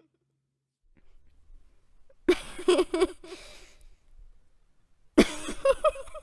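A woman's breathy, high giggling laugh, the flirtatious laugh of a kuntilanak (Indonesian female ghost), in two short bursts of quick pulses, about two seconds in and again near the end.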